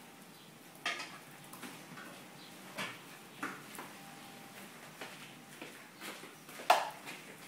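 A pit bull puppy playing with a mop: scattered knocks and scuffs every second or so, with one sharper, louder sound near the end.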